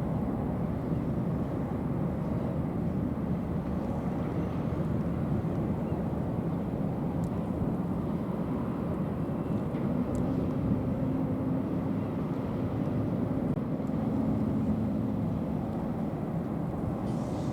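Steady low rumble of a ferry's engines, with a faint hum coming in about ten seconds in and fading a few seconds later.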